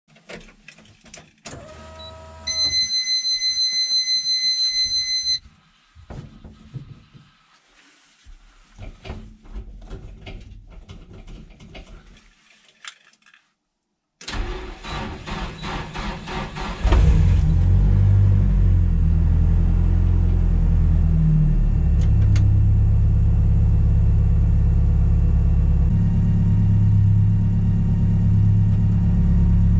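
Nissan 200SX engine turned over by its starter for about two and a half seconds, then catching and settling into a steady idle that shifts in pitch twice. Before the start there is a steady high electronic beep lasting about three seconds, along with scattered clicks.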